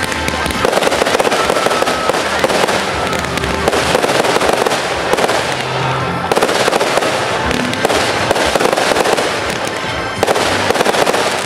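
Crackling fireworks: dense, rapid crackling from fountains of sparks, in long stretches with brief breaks about six and ten seconds in. Music plays underneath.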